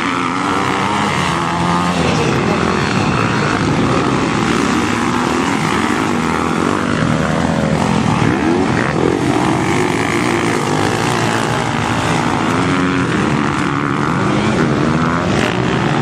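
Several motocross motorcycle engines running hard on the track, their pitch rising and falling as the riders rev and shift.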